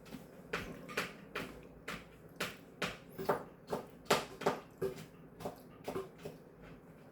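An irregular run of short, sharp clicks or taps, about two a second.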